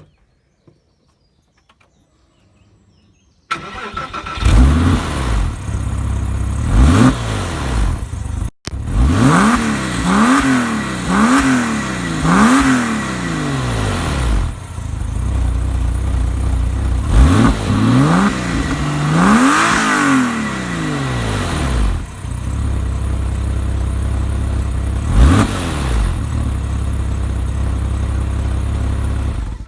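Porsche 911 flat-six engine starting about three and a half seconds in, then idling loudly between repeated throttle blips, the revs rising and falling in quick runs of up to four. The loud exhaust note comes from either a sports exhaust or worn-out silencer baffles.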